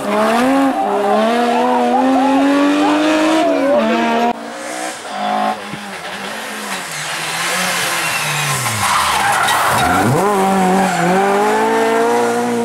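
Rally car engine at hard throttle, revving up and changing gear. The note drops about four seconds in, sinks very low around nine seconds, then climbs again as it accelerates.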